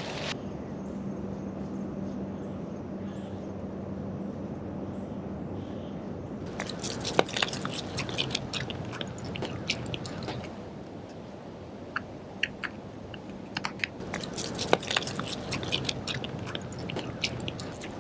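Footsteps crunching across the ground in two spells of dense, irregular crunches, the first starting about six seconds in and the second about fourteen seconds in. Before them there is only a steady low hum.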